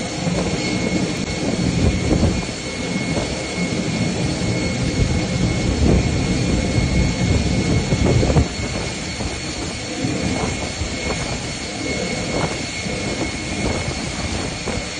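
Loud, steady rushing roar of a thunderstorm, with heavy low rumbling that surges irregularly.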